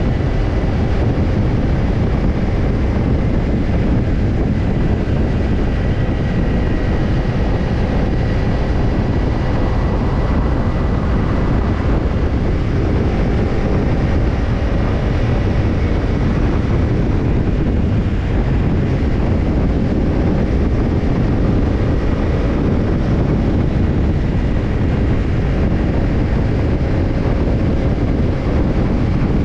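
Kawasaki Ninja 250 parallel-twin engine with a BEET NASSERT Evolution Type II titanium slip-on muffler running at a steady, even pitch, with wind noise over the exhaust note.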